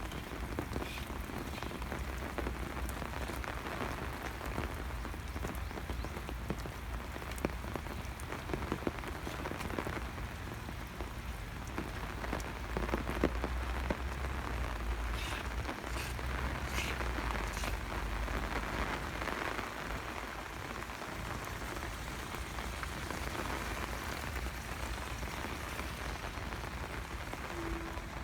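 Steady rain falling and spattering on hard surfaces, with a low rumble underneath and a few sharper drip ticks about halfway through.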